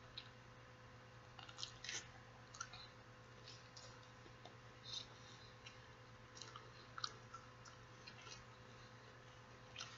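A person chewing chicken taco, with faint, scattered wet mouth smacks and clicks over a low steady hum.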